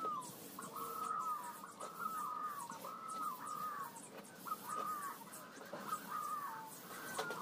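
A bird calling over and over, short calls at about one a second, each ending in a falling slide.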